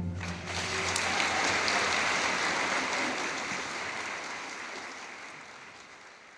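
Audience applause in the soundtrack, fading out steadily over several seconds.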